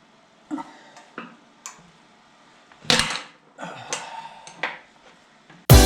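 A few scattered clinks and knocks of work on excavator hydraulic hose fittings, the loudest about three seconds in and a quick run of them a second later. Music starts just before the end.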